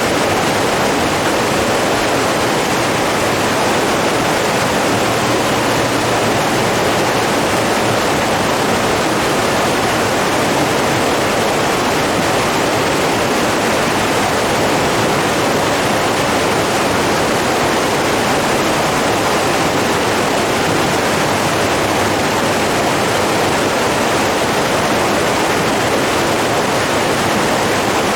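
Steady rushing of flowing water, an even noise that holds at the same level throughout.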